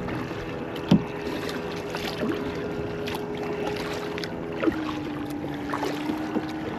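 Old Town canoe under way on the water, with a sharp knock about a second in and another about two-thirds through, as of a paddle striking the hull. A steady hum runs underneath and drops to a lower pitch at the second knock.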